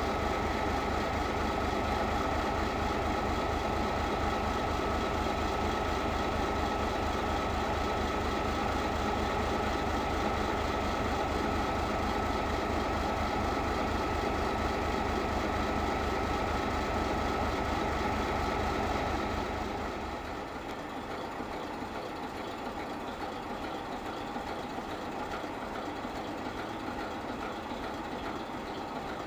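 Diesel engine of a class 751 diesel locomotive running steadily with an even low rumble; about two-thirds of the way through it becomes quieter and the deep rumble falls away, while a fainter running sound carries on.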